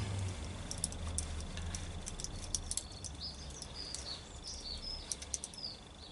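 Small birds chirping in short high notes, mainly in the second half, over scattered light clicks and a steady low hum.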